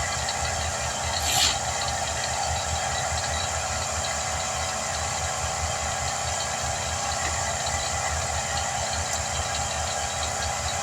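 An engine idling steadily with a low, even pulse, and a brief sharp noise about a second and a half in.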